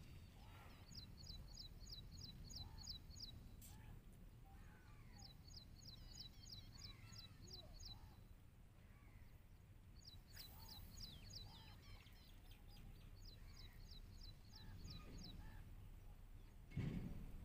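Faint birdsong in the open: a bird repeats a quick run of high, falling notes, about eight a second, for a second or so every few seconds, over softer scattered chirps. A low rumble lies beneath, and near the end there is a brief low thump.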